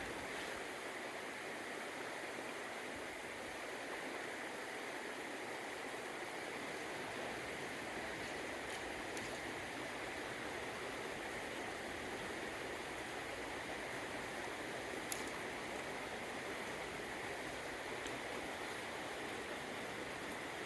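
Small upland stream running over stones: a steady, even rush of moving water, with one faint click about three-quarters of the way through.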